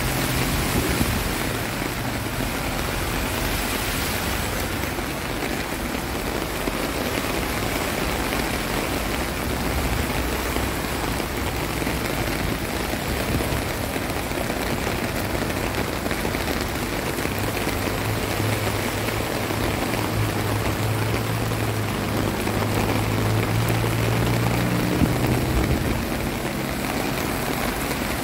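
Heavy rain pouring steadily onto a flooded street, with cars driving through the standing water. In the last third a car engine's low hum comes in, then drops away near the end.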